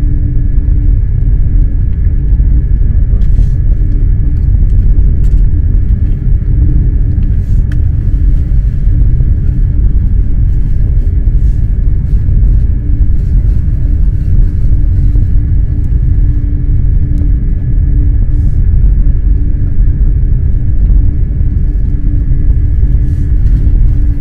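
Eurostar high-speed electric train running: a steady, loud low rumble with a constant hum and a faint high whine over it, and a few faint clicks.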